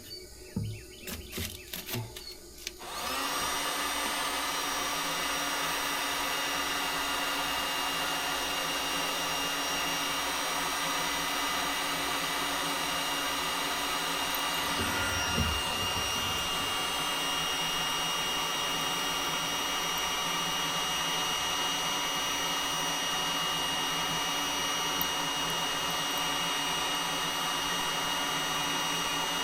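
Looftlighter electric charcoal starter switched on about three seconds in after a few handling knocks, then running steadily: its fan motor blowing superheated air into lump charcoal to set it alight.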